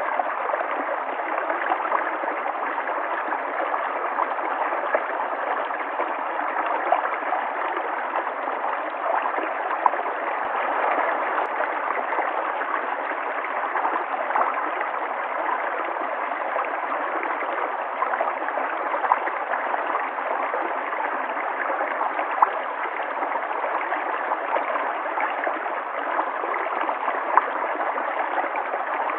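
River water flowing and gurgling steadily, an even rushing with small splashes scattered through it.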